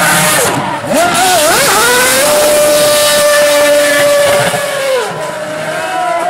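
Ferrari Formula One car's engine at high revs, loud: the pitch falls sharply, wavers and climbs back up, then holds one steady high note for about three seconds before dropping away about five seconds in.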